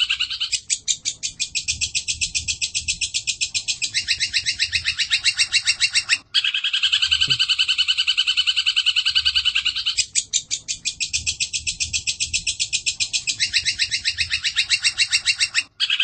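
Looped bird-song training recording of birds chattering: a fast, even run of high chirps with two short breaks, one about six seconds in and one near the end, the same pattern then starting over.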